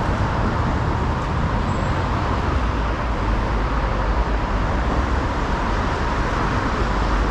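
Steady city street traffic noise: a continuous low hum of passing road vehicles.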